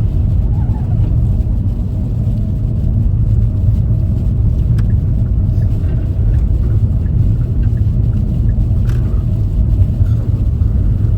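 Steady low rumble of a front-wheel-drive car's tyres and engine, heard from inside the cabin while it drives slowly through snow on the road.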